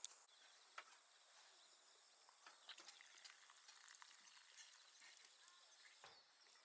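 Near silence: faint outdoor ambience with a steady high-pitched drone and a few soft scattered clicks.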